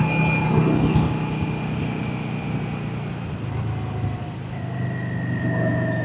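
Yamaha XVS650's air-cooled V-twin engine running steadily on the road, its note dropping a little about four to five seconds in.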